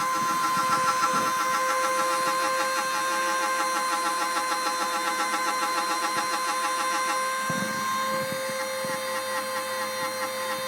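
Homemade CNC router cutting a hole in a printed circuit board: the Dremel spindle gives a steady high whine while the stepper motors driving the axes make a fast pulsing buzz. The motion sound changes about three quarters of the way through as the machine moves on along its path.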